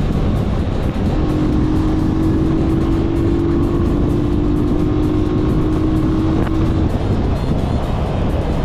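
Italika FT150 motorcycle's single-cylinder engine running underway, mixed with heavy wind noise on the microphone. A steady tone sounds from about a second in until near the end.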